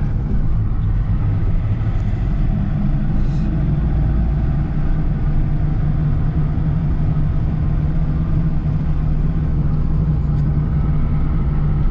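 Car driving, engine and road noise heard from inside the cabin as a steady low drone.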